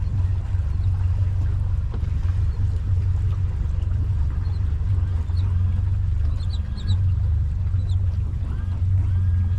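Boat outboard motor running at low speed, a steady low hum. A few faint high chirps come about six to seven seconds in.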